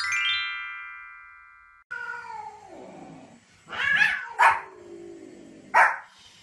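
A bright chiming transition jingle rings out and fades over the first two seconds. Then comes a long animal call falling in pitch, followed by three short, sharp yapping barks from a small spitz-type dog.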